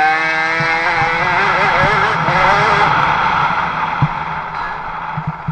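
Several 50cc two-stroke motocross bike engines at high revs, a steady high note at first, then several engines overlapping with pitches rising and falling as the throttle comes on and off, fading near the end.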